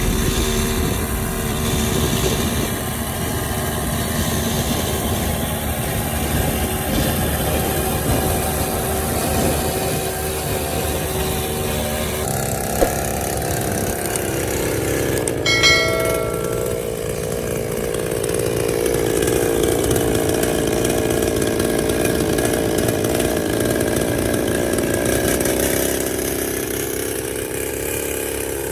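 Small two-stroke chainsaw engine running continuously, its pitch wavering up and down in the second half. A brief metallic ring sounds about halfway through.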